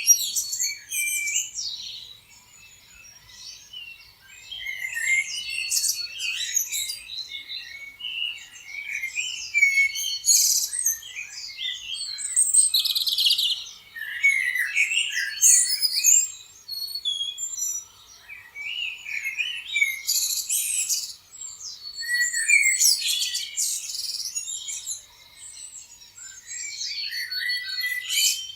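Several songbirds chirping and singing at once, overlapping high trills, whistles and quick chirps coming in bursts every few seconds.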